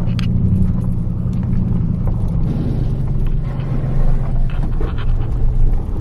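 Ford F-150's V8 engine and exhaust running with a steady low rumble, with scattered short clicks over it.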